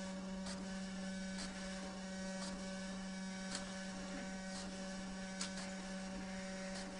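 A steady electrical hum with faint soft ticks about once a second.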